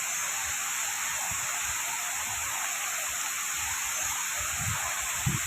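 Strong wind blowing in a steady hiss, with a few brief low buffets on the microphone near the end.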